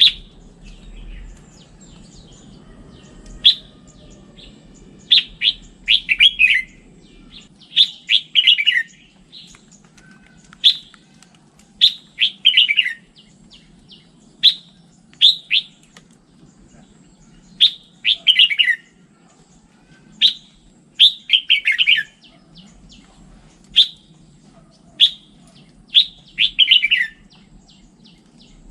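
Red-whiskered bulbul singing: short clear chirps and quick runs of falling notes, repeated every second or two, over a faint low hum.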